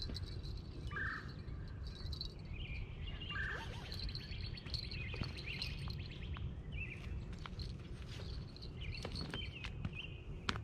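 Songbirds calling, with short chirps and trills repeating every second or two, over a low steady rumble. There is one sharp click near the end.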